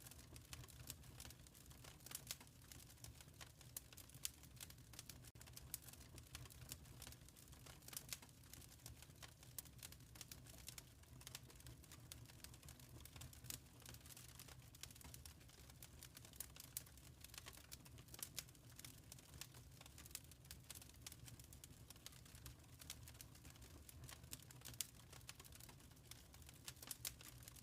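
Wood fire crackling in a fireplace: a quiet, dense run of small irregular pops and snaps, with a few louder cracks, over a steady low hum.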